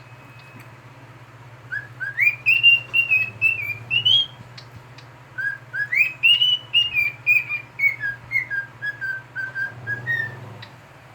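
Cockatiel whistling two phrases: each opens with a rising whistle, then runs on as a string of short notes that waver and step down in pitch.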